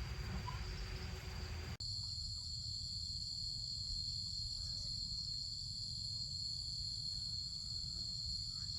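Insects chirring steadily in several high, unbroken tones, much louder after an abrupt cut about two seconds in, over a low rumble.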